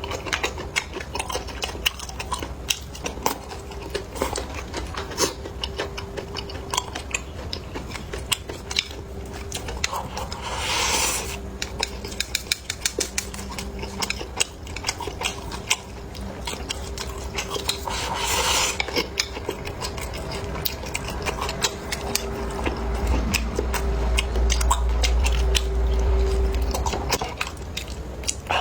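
Close-miked eating: utensils clicking and scraping against dishes, mixed with chewing, as many small clicks throughout. Two brief louder noisy swells come about a third and two-thirds of the way in.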